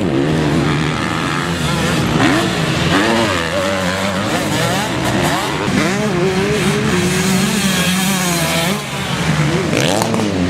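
Several motocross bike engines revving, their pitch rising and falling over one another as riders work the throttle and shift gears around the track.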